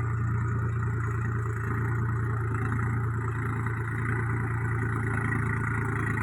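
Tractor engine running steadily while ploughing a field: an even, unbroken drone with no change in speed.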